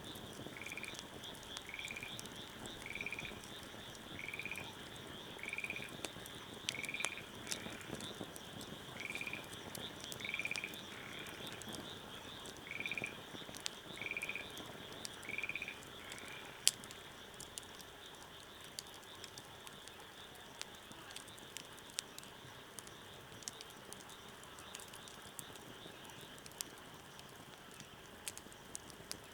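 Wood fire crackling with scattered sharp pops. Over it, a short call repeats about once a second and stops about 16 seconds in, against a steady high-pitched chorus.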